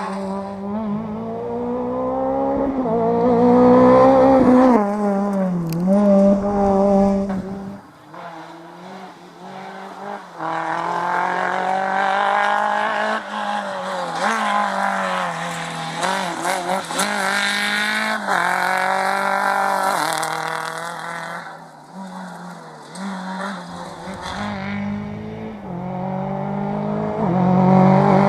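Rally car engines revving hard on a stage, the pitch climbing and dropping again and again through gear changes and lifts. The sound changes abruptly about eight seconds in.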